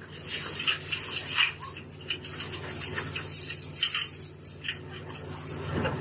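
Water splashing and sloshing in irregular bursts over the steady low hum of a fishing boat's engine.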